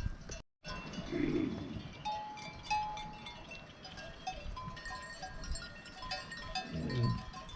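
Bells on a grazing flock tinkling, with a bleat about a second in and another near the end. The sound drops out briefly about half a second in.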